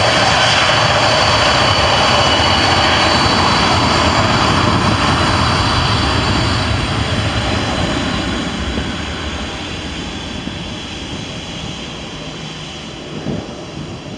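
Jet airliner's engines running loud, with a steady high whine over the roar. The sound fades gradually over the second half as the aircraft moves away.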